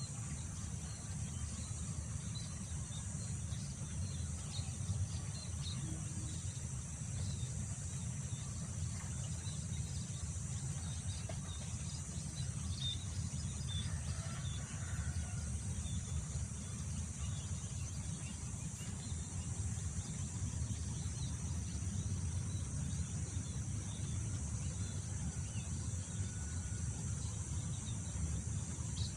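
Wind rumbling on the microphone over a steady high chorus of insects such as crickets, with scattered faint bird chirps.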